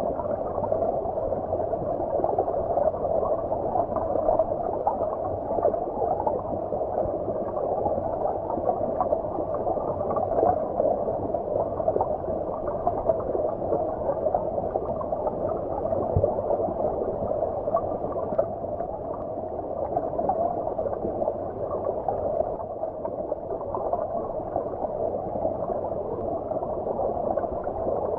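Stream water flowing, heard from beneath the surface. It makes a steady, muffled rush with the highs cut off and no distinct splashes.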